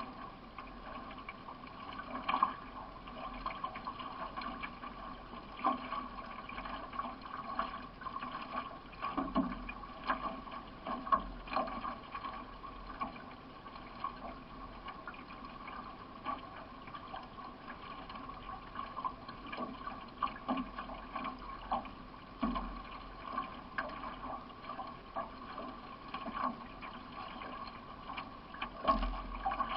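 Solo racing canoe under way: repeated paddle strokes splashing and dripping in the water, with water running along the hull.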